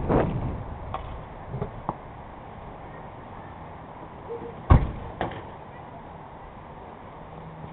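The last of a straight-piped exhaust rev dies away at the start. Then a few sharp knocks sound over a low steady background, with one loud slam about 4.7 seconds in, like a car door shutting.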